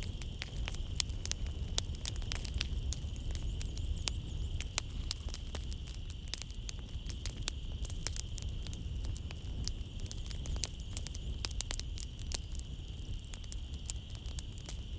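Wood fire in a fireplace crackling, with many irregular sharp pops and snaps over a low rumble of the flames. A steady high drone runs underneath, like a chorus of night insects.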